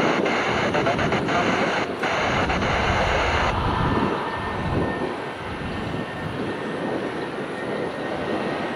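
Jet airliner engine noise: a steady rush with a faint high whine. A band of hiss over it cuts off suddenly about three and a half seconds in.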